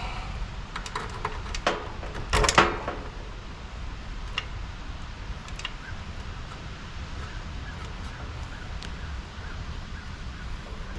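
Handling noise from wiring work at an HVAC unit: a few sharp clicks, then a louder clatter about two and a half seconds in, over a steady low rumble with faint ticks.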